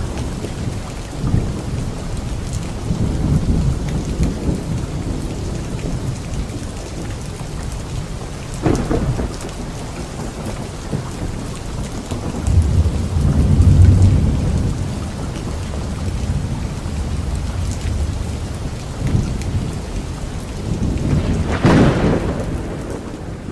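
Steady heavy rain falling, with rolling thunder rumbling low and swelling to its loudest about halfway through, and two sharper thunderclaps, one around a third of the way in and one near the end.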